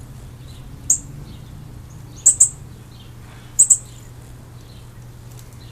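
A small bird chirping: short, sharp, very high chirps, one about a second in, then two quick double chirps.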